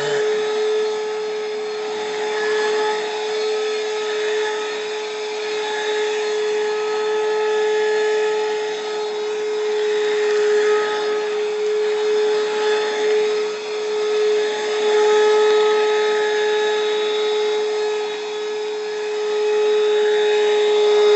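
XSONGX cordless handheld UV bed vacuum running on a blanket: a steady motor whine over rushing air, swelling and dipping in loudness as it is pushed back and forth.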